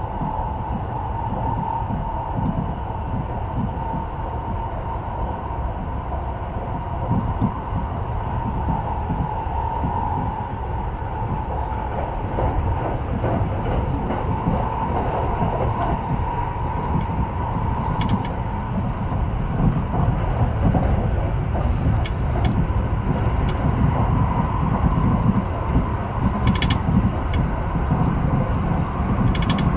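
Haruka airport express electric train running along the line, heard from aboard: a steady rumble of wheels on rails with a continuous hum, and a few sharp clicks in the second half.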